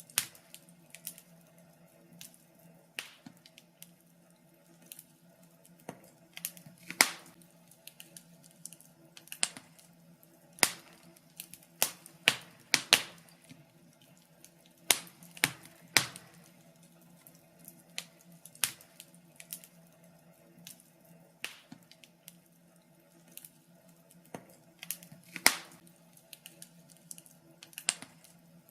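Wood fire crackling: irregular sharp pops and snaps, sometimes several close together, over a faint steady low hum.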